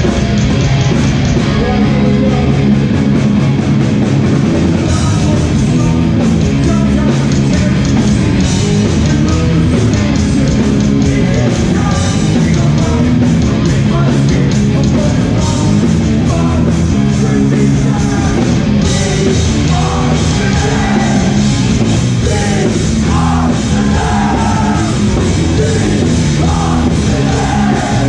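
Live hardcore punk band playing loud and fast: distorted guitars, bass and pounding drums, with shouted vocals that come in strongly about two-thirds of the way through.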